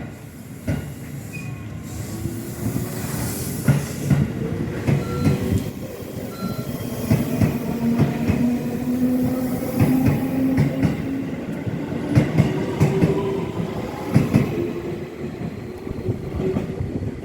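Electric train on the Tokaido Main Line running close by. A motor whine slowly rises in pitch over a rumble of wheels, with repeated knocks as the wheels cross rail joints.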